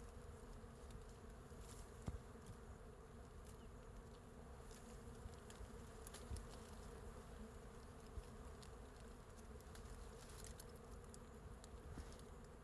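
Faint, steady buzzing hum of a wild colony of bees massed on their hive, with scattered faint ticks.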